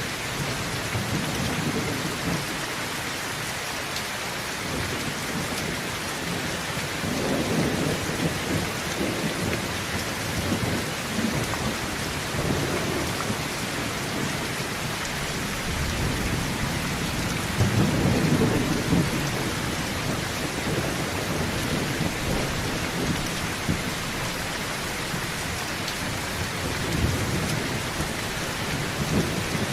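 Heavy rain falling on a tin roof, a steady hiss, with thunder rumbling low several times; the loudest roll comes about two-thirds of the way through.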